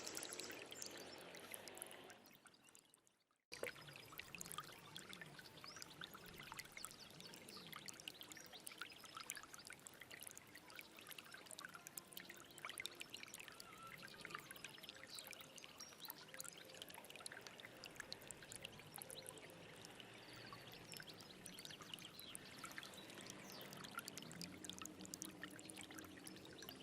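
Stream water flowing and splashing, a steady rush dotted with many small splashes. About two seconds in it fades away, and a second or so later it cuts back in abruptly.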